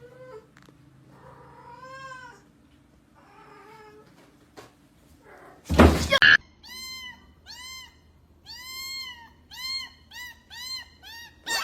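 Cat meowing: a few spaced meows, then a loud thump about six seconds in, followed by a quick run of short, high-pitched meows, about two or three a second.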